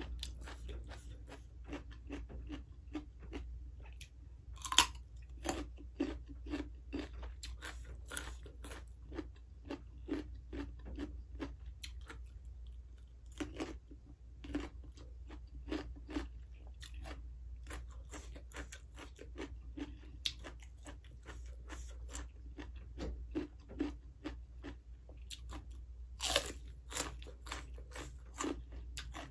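Crisp raw vegetables, a red radish among them, bitten and chewed up close. There are loud crunching bites about five seconds in and again near the end, with steady crunchy chewing between.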